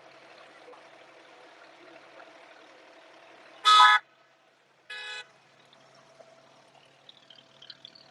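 Two short horn toots, the first loud and the second quieter about a second later, over the steady hum of the abra's engine running under way.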